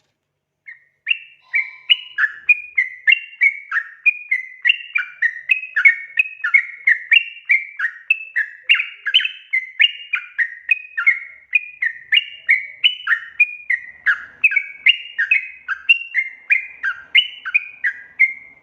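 Yellow-vented bulbul (trucukan) singing a long, fast, bubbly chatter of rising and falling notes, about three a second. It starts just under a second in and stops abruptly at the end.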